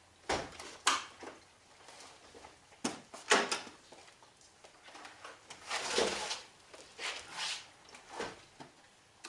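Scattered knocks and clicks with short bursts of rustling, the loudest rustle about six seconds in. These are handling sounds; no engine is running yet.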